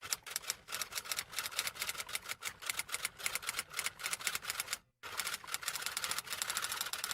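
Rapid typing clicks, about seven a second. They stop briefly about five seconds in, then resume.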